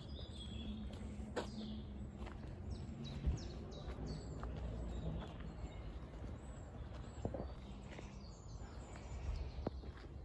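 A bird calls repeatedly in woodland, a series of short, high, falling chirps about once a second, over a steady low rumble, with a few footsteps on the path.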